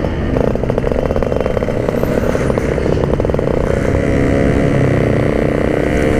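Yamaha RX King's 135 cc single-cylinder two-stroke engine running under way through a standard-style packed exhaust, a rapid buzzing firing note held at fairly steady revs. The rider says the engine feels 'ngangang' when held, and earlier calls it very wet, i.e. running rich.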